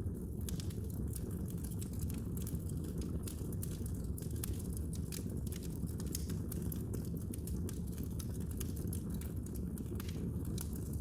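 Wood fire crackling in a fireplace: many sharp pops and snaps, several a second, over a steady low rumble.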